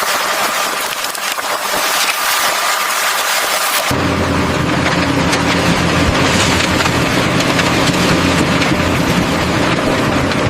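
A loud, even hiss for about four seconds, then a sudden switch to a steady low engine hum of machinery running, which carries on to the end.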